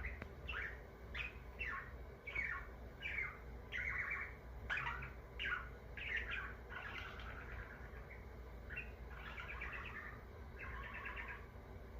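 Budgerigar chirping and warbling in a steady run of short notes, many of them quick downward sweeps, with buzzier trilled chatter in the second half.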